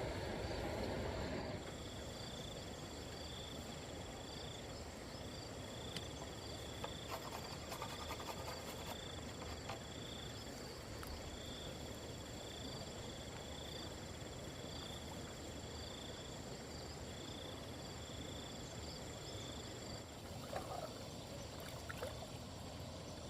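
Water trickling and running in a stream, a steady wash, with a faint high chirp repeating over it.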